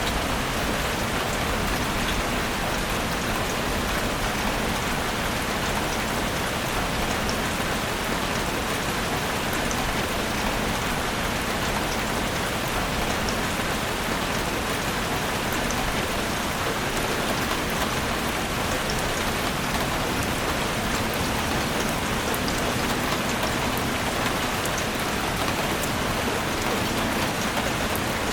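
Steady rain falling in a forest, an even hiss with many fine drop ticks on leaves and surfaces.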